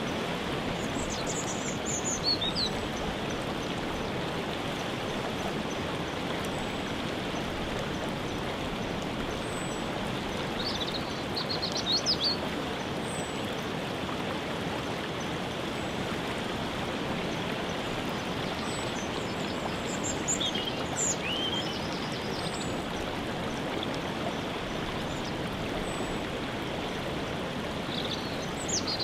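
Waterfall rushing steadily, with songbirds chirping in short high phrases four times, several seconds apart.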